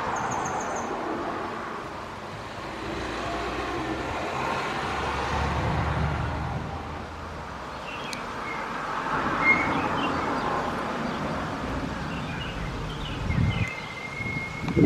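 Boeing 777-300 jet airliner on final approach: a steady engine rumble that swells and eases in waves. A few short bird chirps come in over it in the second half.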